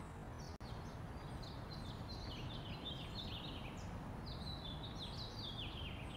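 Birds chirping faintly: a steady run of short, quick notes, each falling in pitch, over a low outdoor background rumble.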